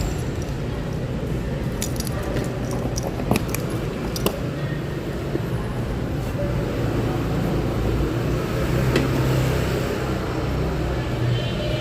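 Honda Click 125i scooter riding in traffic: engine running steadily under road and wind noise, with a few light metallic clicks and jingles about three to four seconds in.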